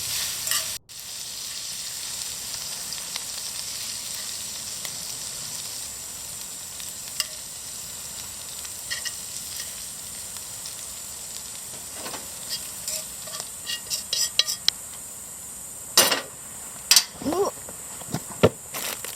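Shrimp frying in garlic oil, sizzling steadily. A run of sharp clicks and knocks comes in the last few seconds.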